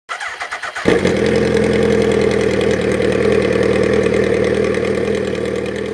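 Motorcycle engine starting: about a second of rapid cranking pulses, then it catches and runs steadily, fading out near the end.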